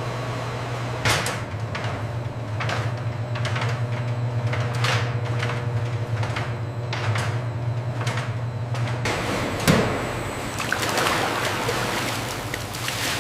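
Factory machinery running with a steady low hum, overlaid by sliding, clacking strokes about every two seconds. About nine seconds in the hum stops, and a single thump is followed by a hissing, rushing noise.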